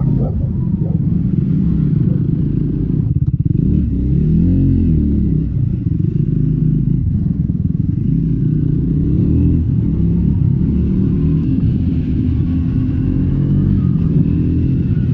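Triumph Scrambler 400 X's single-cylinder engine on its stock exhaust, running under load on an off-road ride. The throttle closes briefly about three seconds in, then the engine revs up and down before settling back to a steady pull.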